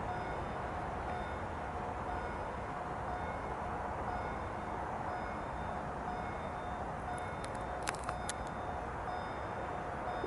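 Steady distant rumble of trains on the line, with a short high electronic beep repeating about once a second, and a few sharp clicks near the end.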